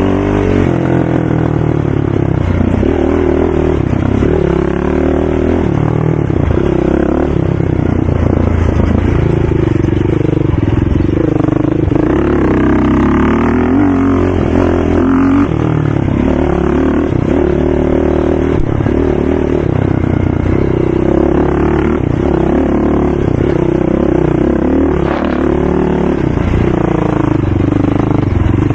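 ATV engine running hard, its pitch rising and falling every few seconds as it revs up and eases off.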